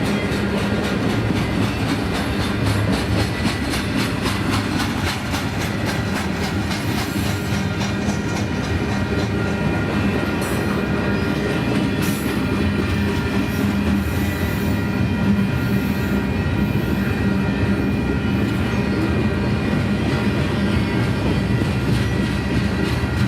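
Double-stack intermodal freight train rolling steadily past, its wheels clicking rapidly and evenly over the rail joints, with a steady rumble throughout.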